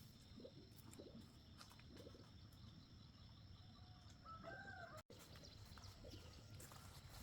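A faint rural background with a thin steady high tone and one short chicken call, rising then falling, about four and a half seconds in.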